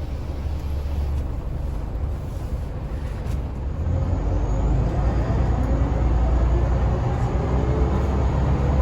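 Scania L94UA city bus's diesel engine running with a low rumble, growing louder and rising in pitch about four seconds in as the bus accelerates.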